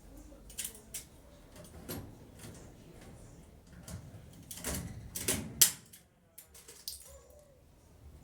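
A series of knocks and clatters of hard objects being handled. They come in small clusters, with the loudest knock about five and a half seconds in.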